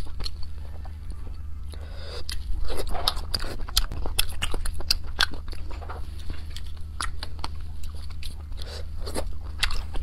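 Close-miked eating of shellfish in chili oil: biting and chewing with many sharp, crisp clicks and wet mouth sounds, over a steady low hum.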